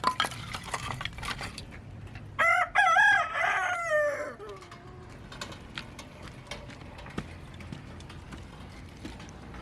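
A rooster crowing once, about two and a half seconds in, its call wavering and then trailing off in a long falling note. Light clicks and clinks come before it.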